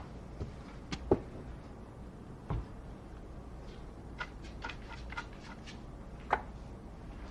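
Billiard balls clicking: a few sharp knocks in the first three seconds, the loudest just after one second, then a quick run of lighter clicks around four to six seconds and one more knock near the end.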